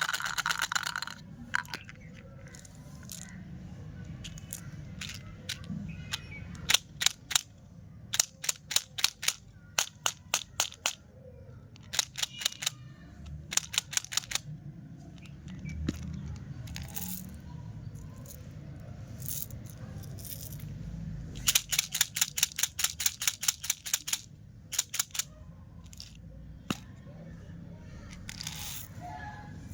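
Candies and their packaging being handled: runs of quick, sharp clicks and taps, several in a row each time, over a low rustle of handling.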